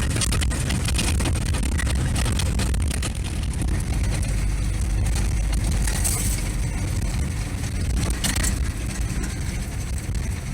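A vehicle driving steadily, its engine and road noise running without a break.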